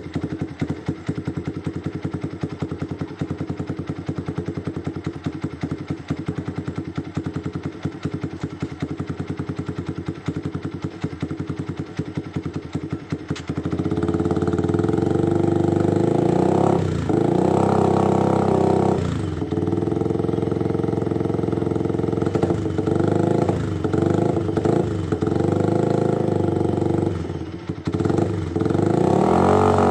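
Yamaha Vixion's single-cylinder four-stroke engine running through an aftermarket JRM slip-on silencer: a steady idle, then about halfway through the engine is held at higher revs, louder, with repeated quick throttle blips.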